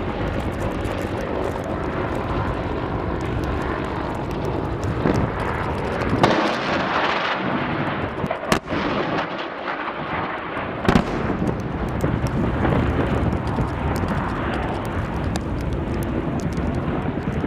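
Military attack helicopter engine and rotor noise during a gunnery exercise, broken by a few sharp bangs of weapons fire or explosions, the clearest about eight and a half and eleven seconds in.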